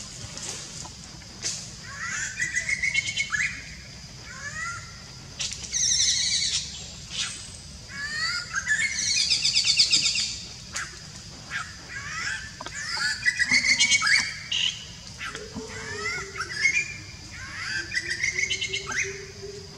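Birds chirping and trilling in the trees: short rising calls and rapid trills, one after another every second or two, over a steady high-pitched background whine.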